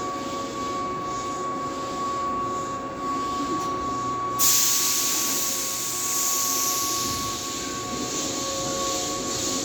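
Keihan Railway 2200-series electric train running with a steady whine. About four and a half seconds in, a loud hiss starts suddenly and carries on to the end.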